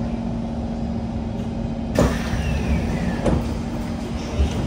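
Cabin running noise of a Kawasaki C151 MRT train: a steady low hum. From about two seconds in come a few sharp knocks, and a whine falls in pitch over about a second.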